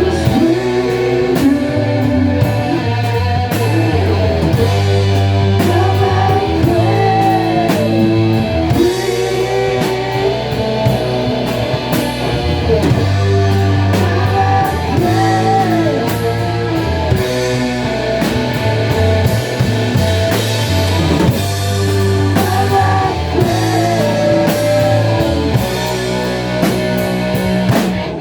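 A live rock band playing through a song with guitar, bass and drum kit and a bending melody line on top. The playing stops abruptly at the very end.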